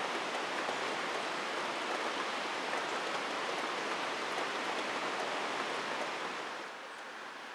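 Steady rain, an even hiss of falling drops, which drops noticeably in level near the end.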